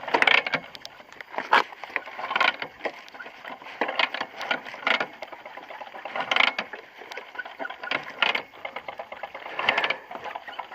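Two-stroke engine with a freshly fitted Chinese cylinder running unevenly during break-in. There is no knocking, which the owner takes as a good sign that the big ends, piston, pins and needle bearings are sound.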